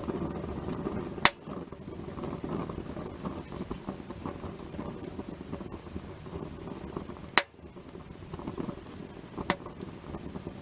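Wood fire burning with a steady low crackle, and three sharp loud pops of burning wood snapping: one about a second in, two more near the end.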